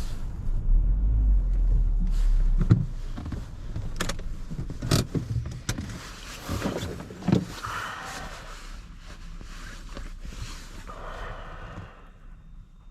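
Car's low rumble for the first few seconds, then it quiets and a series of sharp clicks and knocks follows.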